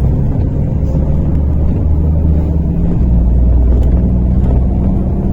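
Interior of a MAZ-103.485 city bus on the move: a steady low engine and road rumble, with the engine note shifting in pitch about halfway through.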